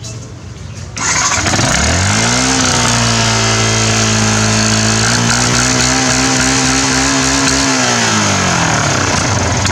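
Motorcycle engine revved under throttle: it gets suddenly loud about a second in, its pitch climbs and holds high for several seconds, rises a little more, then falls back toward idle near the end.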